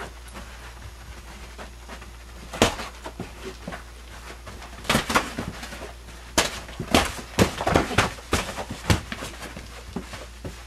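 Sharp impacts: one about a quarter of the way in, then a quick, irregular flurry of them in the middle.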